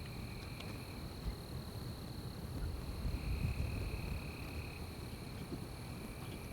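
Night-time insects trilling: one high, steady trill runs throughout, while a lower trill starts and stops in stretches of one to two seconds, over a low rumble.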